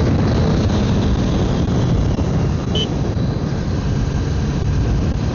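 Honda CB300F Twister's single-cylinder engine running at speed, mixed with heavy wind rush on the microphone.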